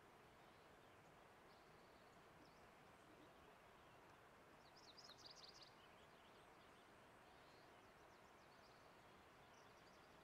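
Near silence: faint outdoor hush, with a quick run of high bird chirps about halfway through and a few fainter chirps here and there.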